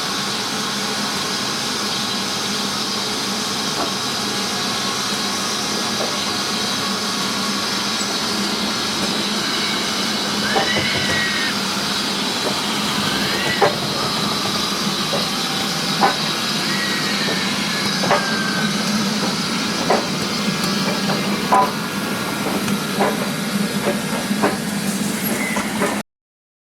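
A steam locomotive hissing steadily, with sharp clicks about every two seconds from about halfway. The sound cuts off suddenly near the end.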